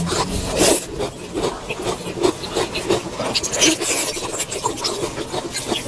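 Close-miked chewing and mouth sounds of someone eating: a run of short wet, crunchy strokes, roughly two or three a second.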